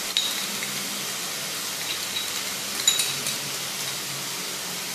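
Shredded cabbage, onion, capsicum and carrot sizzling steadily as they stir-fry in oil in a nonstick kadai, with a short click about three seconds in.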